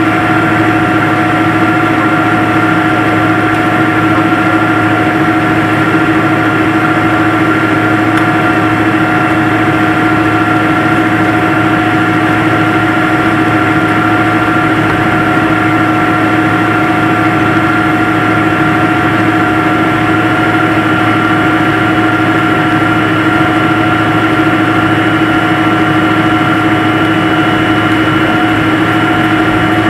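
Airliner's jet engines running steadily at idle, heard from inside the cabin: an even rushing noise with a constant whine of several fixed tones, no rise in pitch or level.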